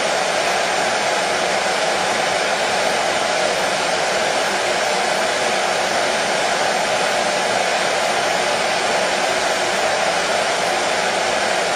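Hair dryer running continuously, a steady whooshing blow of air with motor hum that does not change, played as white noise to soothe colicky babies.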